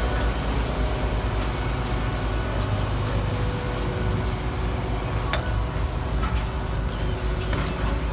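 Garbage truck engine running steadily with a low rumble, and a single sharp clank about five seconds in.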